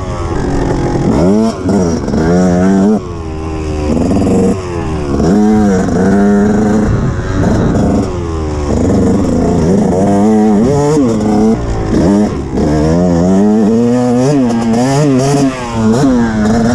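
KTM enduro motorcycle engine under way, revving up and falling back again and again as the rider accelerates, shifts and rolls off the throttle, with a few short drops in loudness.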